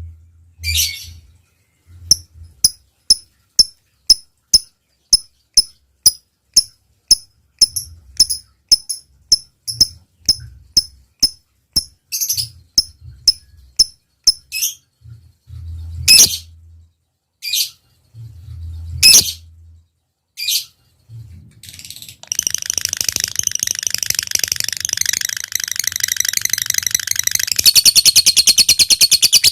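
Lovebird in full song: a run of short, sharp ticking chirps about two a second ("ngetik"), then a few louder single calls, then, about three-quarters of the way in, a long unbroken rapid chatter ("ngekek panjang") that grows louder near the end.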